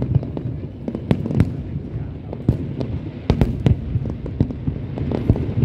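Fireworks display: rapid, irregular bangs and pops of shells bursting, several a second, over a continuous low rumble.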